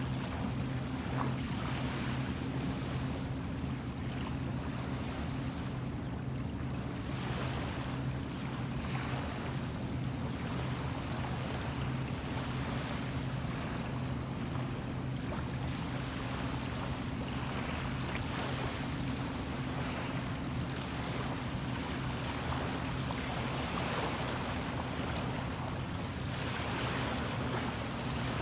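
Small bay waves washing in, the rushing noise swelling every few seconds, over a steady low engine hum.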